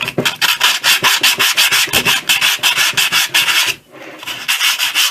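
Sandpaper rubbed quickly back and forth by hand over the metal gasket face of an air compressor's head, about five strokes a second, with a short pause near the end. This is the scraping-off of old gasket remains to prepare the face for silicone sealant.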